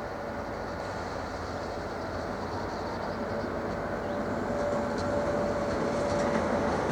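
DB class 296 (MaK V90) diesel-hydraulic shunting locomotive and its train running steadily and getting louder as they approach, with faint clicks from the wheels in the second half.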